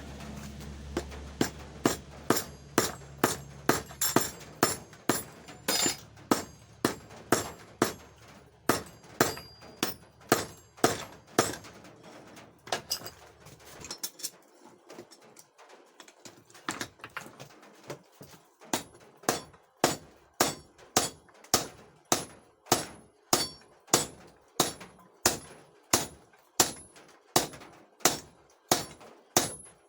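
Hand hammer blows on steel at the anvil while a weld chipping hammer is forged: a steady rhythm of about two ringing strikes a second. A low steady hum runs under the blows and stops about halfway through.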